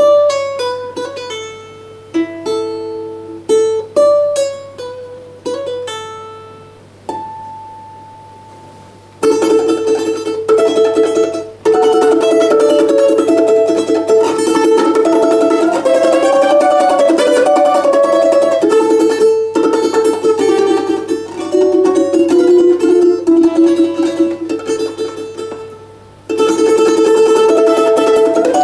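Solo balalaika playing a Russian folk tune. Slow, separate plucked notes ring and fade for the first several seconds. Then comes fast, continuous tremolo strumming of a lively melody, which thins briefly near the end before it picks up again.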